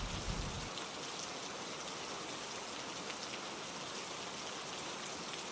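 Steady rainfall, with the patter of drops landing on a surface.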